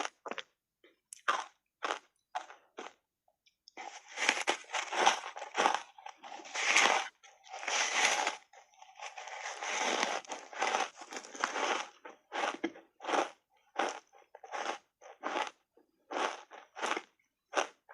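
Reshaped foam ice coated in matcha powder being bitten and chewed. Scattered single crunches give way, about four seconds in, to a long run of dense crunching, then settle into regular chewing crunches about two or three a second near the end.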